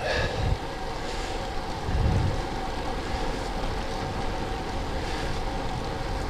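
Wind buffeting the microphone of a camera riding on a moving road bike, with a steady hum of tyres and road underneath; low gusts swell about half a second in and again about two seconds in.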